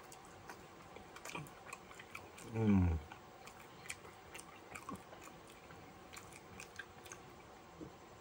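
A person chewing barbecue chicken wings close to the microphone, with scattered small mouth clicks and smacks. About two and a half seconds in, a short hum from the eater that falls in pitch.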